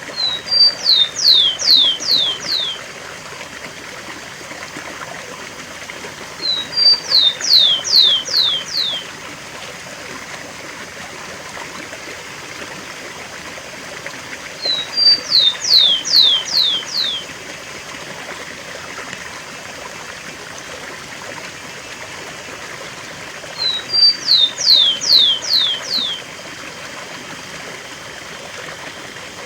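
Rufous-collared sparrow (tico-tico) singing the song type called 'cemitério': four songs spaced several seconds apart, each a couple of short high notes followed by about five clear whistles slurring downward. A steady rush of waterfall water runs beneath the songs.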